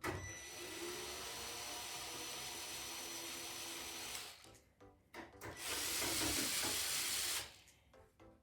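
Compressed air hissing in two blasts, as when dust is blown out of a computer: a steady blast of about four seconds, then a louder, brighter blast of about two seconds.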